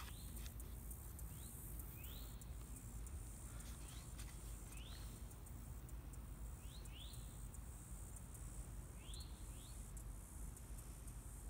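Outdoor ambience: a bird gives short rising chirps every second or two, over a steady high-pitched hiss and a low rumble.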